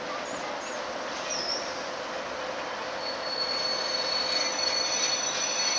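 Class 08 diesel shunter hauling a train of departmental wagons slowly; steady rail rumble that grows louder, with a high, steady wheel squeal setting in about three seconds in.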